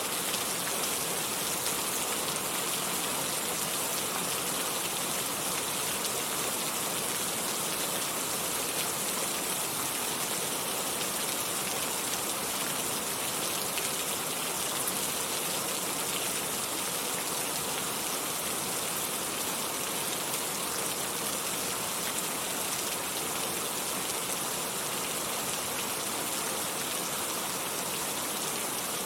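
Steady rain falling, an even hiss that stays at one level throughout.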